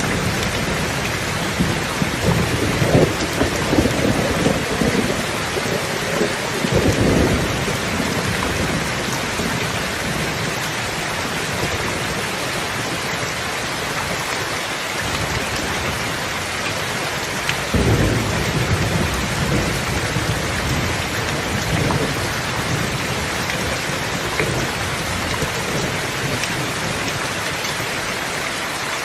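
Steady rain falling on a surface, with low rolls of thunder rumbling through it a few seconds in and again a little past the middle.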